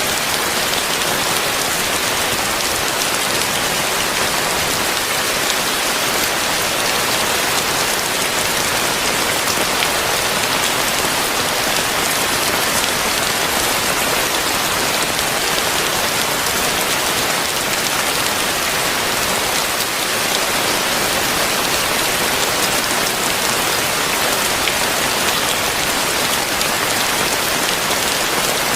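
Heavy rain falling steadily, a dense even hiss of drops striking surfaces with fine pattering ticks through it.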